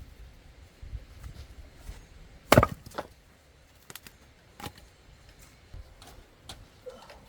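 An axe striking and splitting a log of firewood once, about two and a half seconds in, followed by a few lighter wooden knocks.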